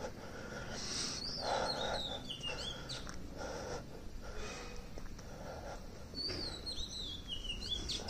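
A songbird singing two warbling phrases that fall in pitch, one about a second in and another near the end.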